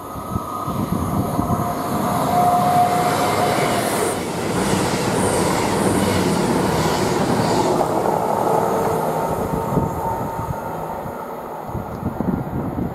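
Class 221 Super Voyager diesel-electric train passing at speed, a rush of wheels on rail and underfloor engines. It builds up quickly, stays loud for several seconds as the carriages go by, then fades away near the end.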